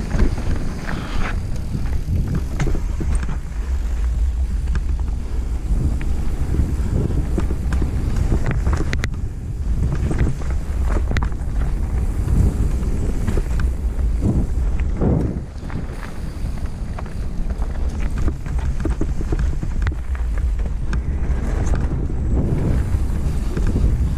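Mountain bike descending a rough trail: wind buffeting the microphone as a steady low rumble, with the bike's frequent clatter and rattle over bumps and the tyres on dirt.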